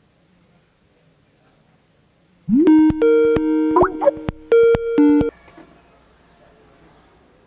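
Electronic ringtone: loud synthetic steady tones that jump abruptly between a few pitches, starting with a short rising swoop about two and a half seconds in and cutting off a little after five seconds.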